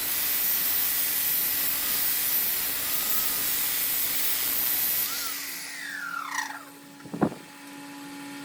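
Wood lathe running, with a tool worked against the spinning wood making a steady hiss over a low motor hum. After about five seconds the hiss stops, a few falling tones follow, and there is a single sharp knock near the end.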